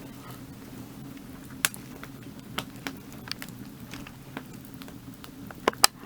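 Firewood burning, crackling with sharp irregular pops over a steady low rumble; the two loudest pops come close together near the end.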